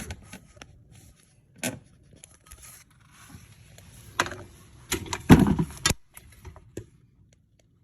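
Metal clinks, knocks and scraping as a drive axle is worked out of a manual transmission, with the loudest cluster of knocks a little past halfway.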